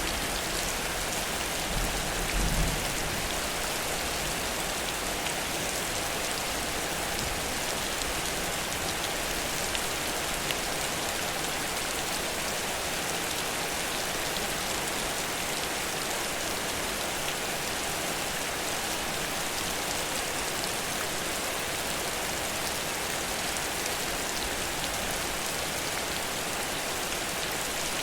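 Heavy rain falling, a steady dense hiss of drops, with a brief low rumble about two and a half seconds in.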